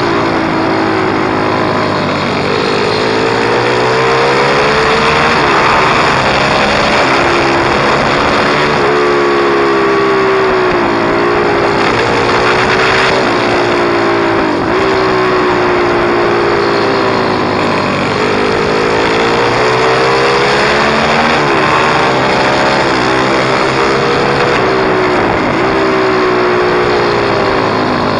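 Pit bike's single-cylinder engine running hard, its pitch climbing and dropping again and again as it revs up and changes gear.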